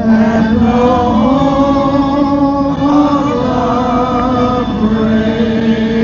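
Music: a man singing long held notes.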